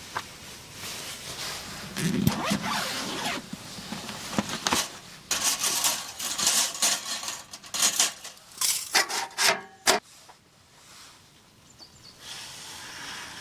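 Rough, irregular scraping strokes, coming thickest from about five to ten seconds in and dying away near the end.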